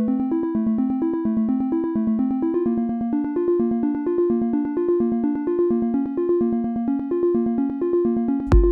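Software synthesizer from Ableton Live's built-in instruments playing a fast sequenced pattern of short notes, about eight a second, moving between a few pitches. Near the end a kick drum and hi-hats come in with it.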